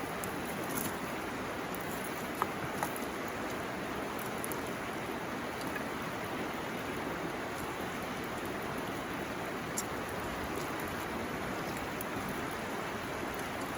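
A river running steadily, with a few sharp pops from a burning bamboo campfire.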